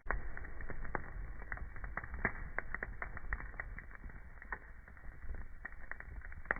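Wood fire crackling in a fireplace: many irregular sharp pops and snaps over a low, steady rumble of the flames.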